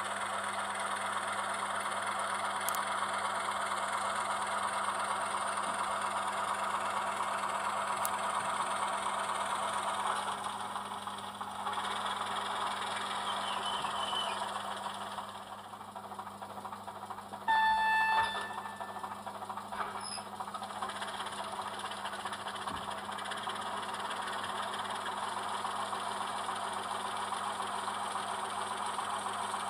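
Digital sound of an H0 model locomotive played by its ESU LokSound decoder through a small speaker: a steady running sound, with one short loud signal blast a little past the middle.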